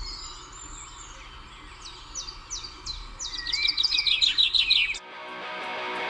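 A songbird sings a series of quick, high, falling chirps that speed up into a rapid trill. About five seconds in, the birdsong cuts off and music begins.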